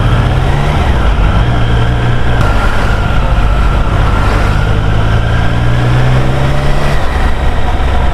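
Motorcycle engine running under way, a steady low note that shifts slightly in pitch a couple of times, under a constant rush of wind noise on the helmet microphone. The bike is plausibly a Triumph Street Triple 765 R, whose engine is an inline three-cylinder.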